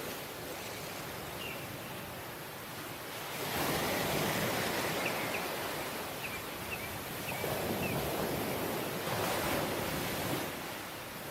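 Waves breaking and washing up on a sandy tropical beach, the surf swelling about three times. A few faint, short, high chirps sound over it.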